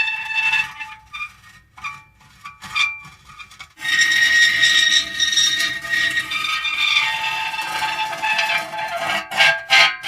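Metal creaking in pitched, squealing strokes. The first few seconds are short, broken creaks; from about four seconds in there is one long, drawn-out creak, and a few sharp clicks come near the end.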